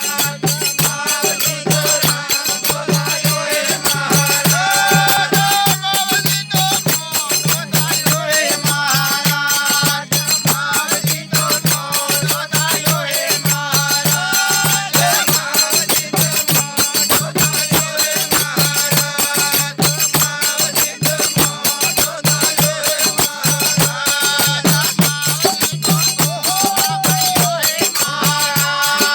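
Indian devotional folk music in bhajan style: fast jingling rattle or tambourine percussion over a pulsing low beat, with a wavering melody line on top.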